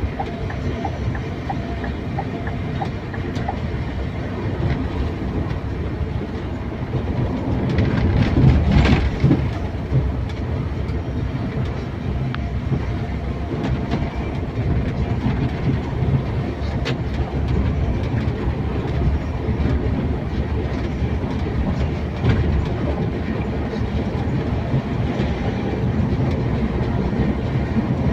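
Scania K410iB coach on the move: a steady low rumble of engine and road noise, swelling briefly about eight to nine seconds in.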